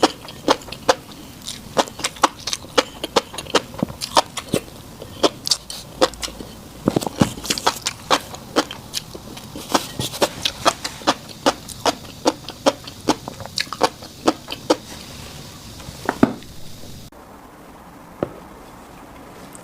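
Close-miked chewing of fish roe, the eggs popping in wet, sharp clicks several times a second. It falls away near the end.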